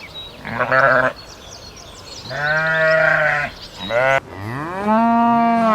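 Sheep bleating: about four calls, the first with a wavering tremble and the last the longest, starting about four seconds in.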